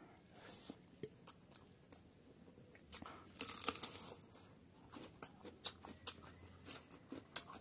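Close-up eating sounds of rice and chicken curry eaten by hand: chewing with scattered wet mouth clicks and smacks, and a denser stretch of chewing about three to four seconds in.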